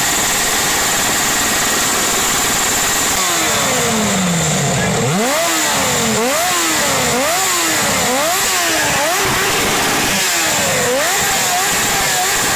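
Motorcycle engine revved up and down over and over, about once a second, after a falling pitch about three seconds in, over a steady loud rushing noise.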